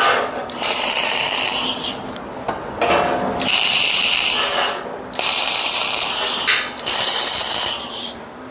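Electric arc welding on a steel frame, crackling in four short bursts of about a second or so each, with brief pauses between: short weld runs joining the bottom plate to the top plate.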